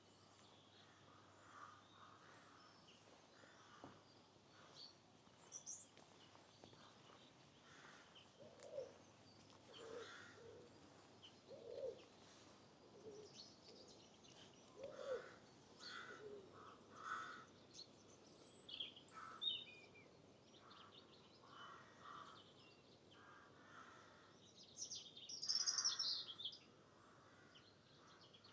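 Birds calling: scattered short crow caws and songbird chirps, with the loudest run of high songbird calls near the end, over a faint steady hiss.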